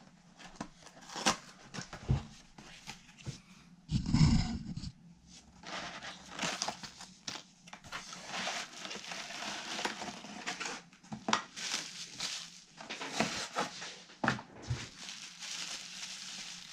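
Handling noise on a workbench: crinkling rustles and small clicks and taps as parts are handled, with a short low buzz about four seconds in.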